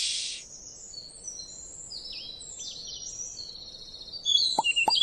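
Several small birds chirping and twittering in short, high calls, busier near the end with a few sharp downward-sweeping notes. The tail of a music track cuts out in the first half second.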